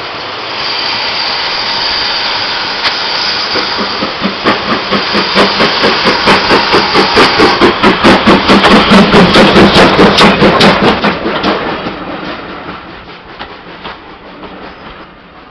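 Steam locomotive working past: a steady hiss of steam, then a regular chuffing exhaust beat of about three to four a second that grows louder, peaks and fades away.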